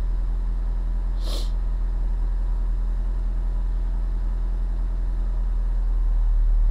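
2016 Ford Mustang EcoBoost's turbocharged 2.3-litre four-cylinder idling with a steady low hum that swells slightly near the end. A brief sharp noise comes about a second in.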